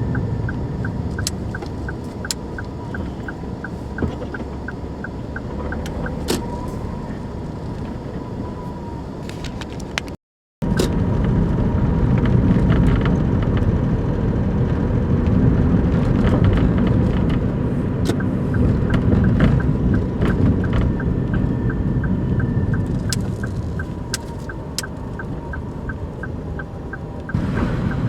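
Daihatsu Move Custom (L175S) three-cylinder engine running with a steady low rumble, with a quick regular ticking of about three ticks a second and scattered sharp clicks. The sound cuts out briefly about ten seconds in and returns louder.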